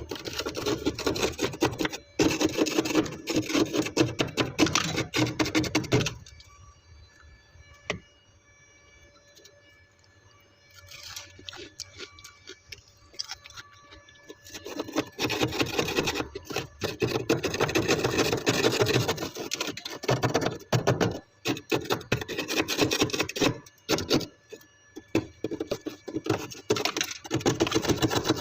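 Frost being scraped off the inside of a freezer in rough, continuous strokes, in two long bouts with a quieter pause of several seconds between them.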